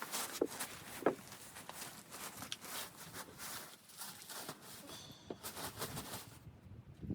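Irregular short crunches and light knocks over a rustling hiss, dying away about a second before the end.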